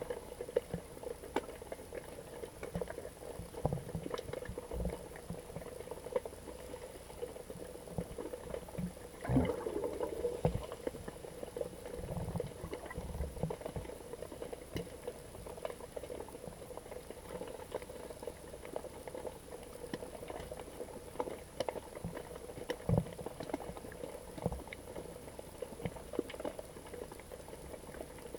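Underwater sound picked up by a GoPro in its waterproof housing: a steady murmur of water with many scattered small clicks and crackles, and one louder burst of bubbling a little after nine seconds in.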